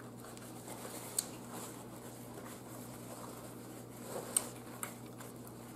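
Faint close-up chewing and mouth sounds of someone eating a sandwich, with a couple of small sharp clicks about a second in and again about four seconds in, over a low steady hum.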